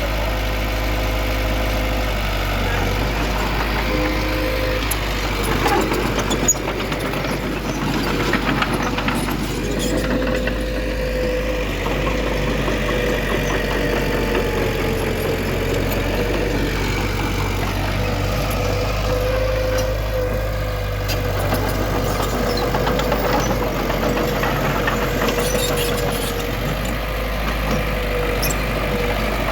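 Heavy earthmoving machinery's diesel engine running steadily: a continuous low drone with a mid-pitched whine that wavers slightly, and a few short knocks between about 6 and 9 seconds in.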